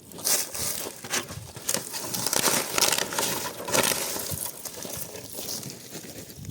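Dense crinkling and crunching with many small, sharp crackles, starting abruptly and easing off a little near the end.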